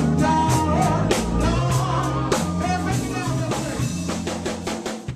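Live funk band playing, a drum kit keeping a steady beat of kick and snare over low sustained notes, the sound fading out gradually.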